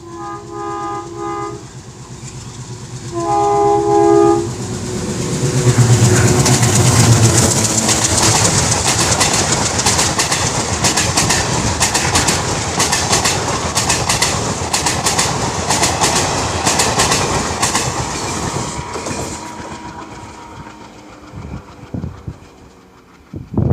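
An Indian Railways locomotive sounds its horn twice, two short chord-like blasts. The train then passes at speed, its wheels clattering rapidly over the rail joints for about a dozen seconds before the sound fades away.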